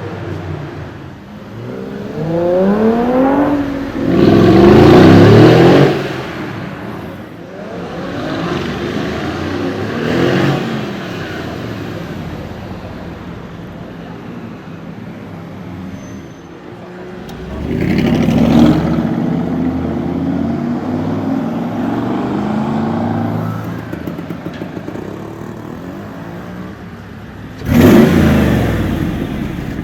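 Mercedes-AMG G-Wagon engines accelerating hard as the trucks drive past, in several separate passes, each rising in pitch as it revs. The loudest pass comes about five seconds in, and a sudden loud burst comes near the end.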